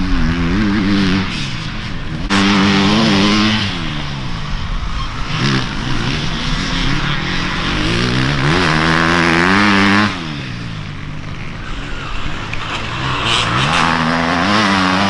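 Dirt bike engines revving up and down as riders race past, the pitch climbing under acceleration and dropping at each shift or throttle-off. The sound changes abruptly about two seconds in and again about ten seconds in.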